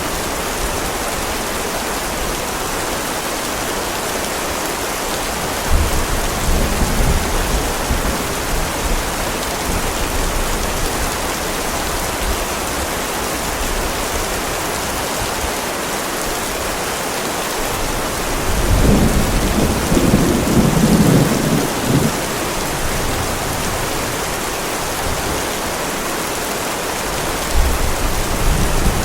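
Heavy rain pouring steadily, with rolls of thunder rumbling deep beneath it: one about six seconds in, a louder, longer one around nineteen to twenty-two seconds, and another starting near the end.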